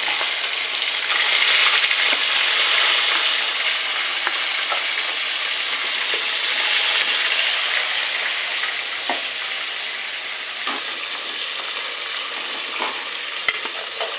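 Food sizzling in hot oil in a pan, loud at first and slowly settling, with a few light clicks of a spatula against the pan.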